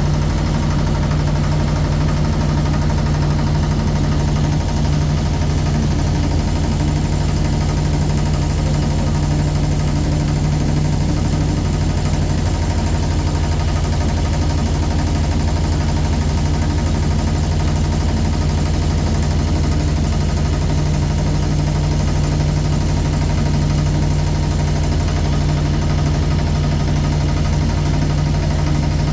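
Boat engine running steadily at a constant speed: a loud, even drone that never changes.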